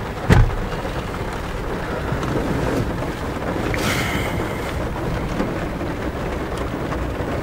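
A plastic glove box lid shuts with a single knock just after the start, then rain drums steadily on the car's roof and glass, heard from inside the cabin. A short hiss comes about four seconds in.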